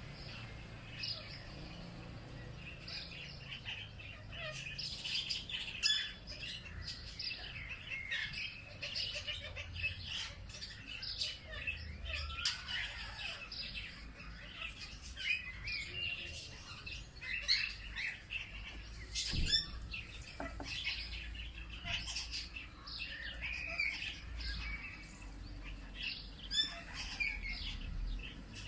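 Several birds chirping and calling over each other in a busy chorus of short chirps and trills.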